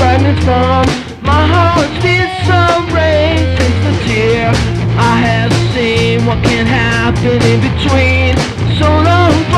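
Rock music: a band track with steady bass, drums and a wavering lead melody line.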